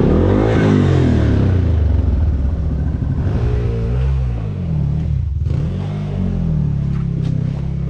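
Dirt bike engine revving up and down, its pitch rising and falling several times, with a brief drop in revs about five seconds in.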